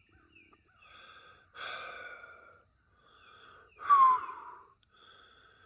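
A man breathing out heavily in two long sighing breaths. The second, a bit after the middle, is louder and carries a brief whistling tone.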